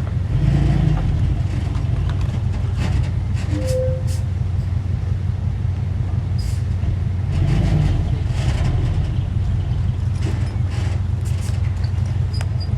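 Heavy earthmoving machine's diesel engine running steadily, with scattered metallic clanks and knocks.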